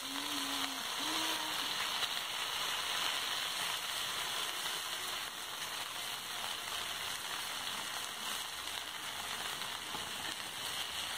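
Freshly chopped dastal (elephant-ear) leaves sizzling in hot oil in a wok, with a steady frying hiss.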